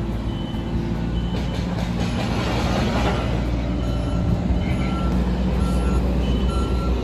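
A heavy vehicle's engine running with a steady low rumble, while a reversing alarm beeps in short repeated tones, mostly in the second half.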